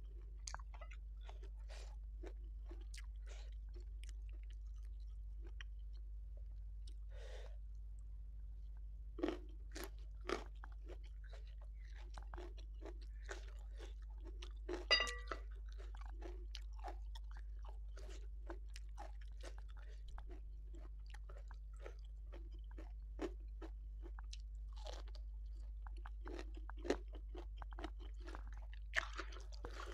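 A person eating close to the microphone: chewing with many small wet clicks and crackles, and a few louder crunches, the loudest about fifteen seconds in as a leaf of raw napa cabbage is broken. A low steady electrical hum lies underneath.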